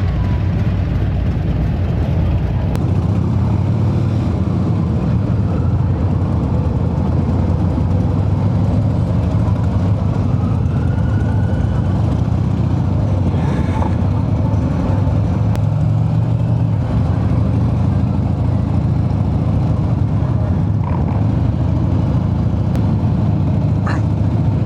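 Harley-Davidson V-twin motorcycle engine running steadily at slow parade pace, with a continuous low-pitched exhaust note.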